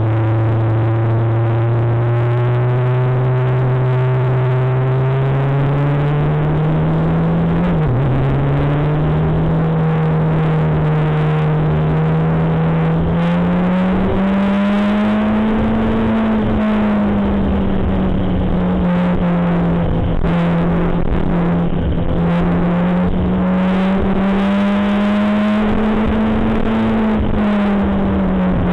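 Motorcycle engine running on a ride, its note slowly rising and falling with the throttle, with a sharp brief dip about eight seconds in. Rushing wind noise runs underneath.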